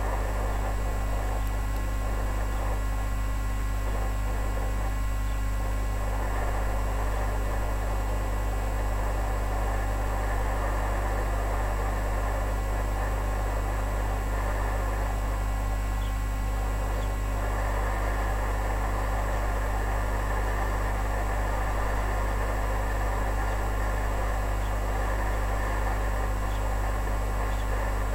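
A steady low electrical hum with a rough, hissing noise over it that swells and fades slightly from time to time.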